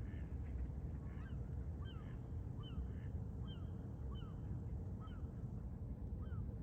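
Geese honking at a distance in a repeated series of short calls, starting about a second in, over a steady low rumble.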